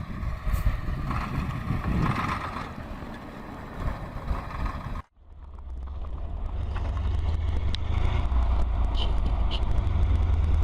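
Heavy truck driving, its engine and running gear making a noisy rumble, which breaks off suddenly about halfway through. Another truck engine then runs with a deep, steady rumble and a few faint clicks.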